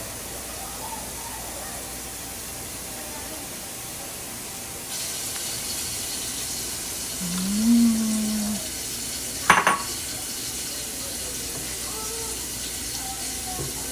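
Pot of arroz caldo (rice porridge) heating on the stove with a steady hiss, which grows brighter about five seconds in. Midway comes a brief low hum-like tone, then a single sharp metallic clank at the pot.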